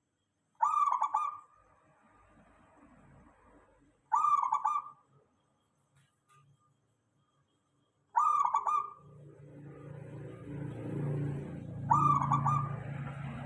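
Zebra dove (perkutut) cooing: four short trilling coos, evenly spaced about four seconds apart. A low hum builds up behind the last two coos.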